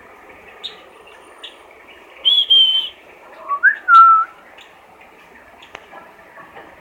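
Pet eagle giving whistled calls: a high held note, then a lower call that rises and levels off.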